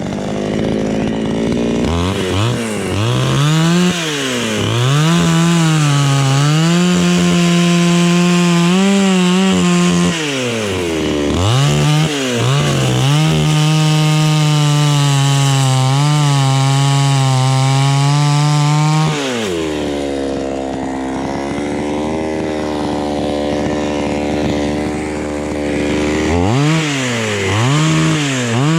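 Two-stroke chainsaw cutting into jackfruit wood. The engine is held at high revs under load, drops briefly about a third of the way in, and falls back to a lower note for several seconds about two-thirds through. It revs up again near the end.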